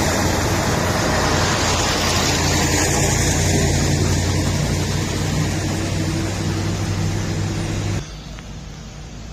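An engine running steadily with a low hum under loud rushing noise; the sound drops sharply to a quieter level about eight seconds in.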